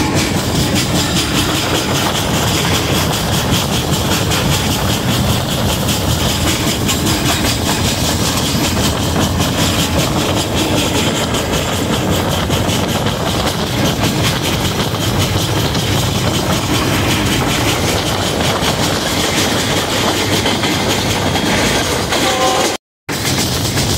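Passenger train under way, heard from an open coach doorway: a steady rumble and rattle of wheels on the rails, mixed with wind. The sound drops out for a moment just before the end.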